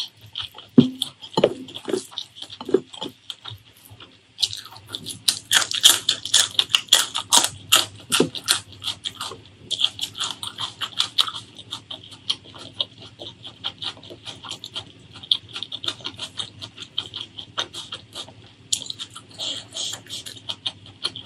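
Fingers squishing and mixing rice with curry on a plate, soft wet pats for the first few seconds, then close-miked wet chewing of a handful of rice and beef curry with dense clicking mouth sounds that go on to the end.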